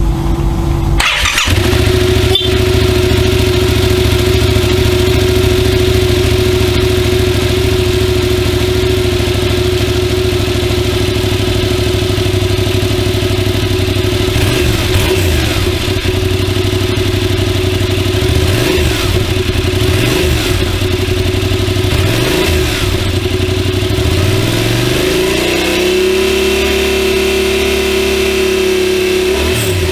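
Yamaha MT-07's 689 cc parallel-twin engine idling steadily, then blipped several times with short revs that rise and fall back. Near the end it is held at higher revs for a few seconds before dropping back.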